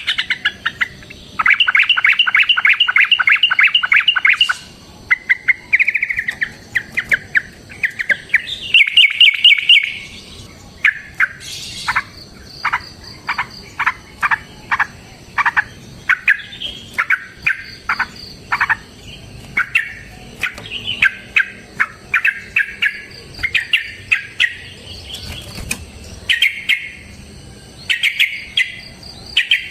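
Yellow-vented bulbul (trucukan) singing in excited, fighting mode: fast rattling trills and bubbly phrases, then a long run of sharp single notes about two a second, followed by more chattering phrases.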